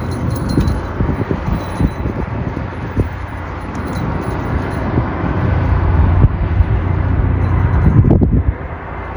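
Strong gusty wind buffeting the microphone, a deep rumbling rush that swells a few seconds in and then drops off near the end.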